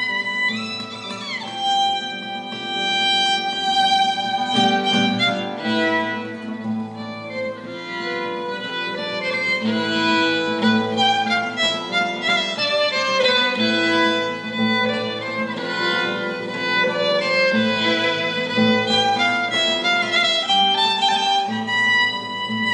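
Chamber orchestra strings playing: a high violin note held with vibrato, a falling glide about a second in, then sustained melody over repeated notes in the lower strings.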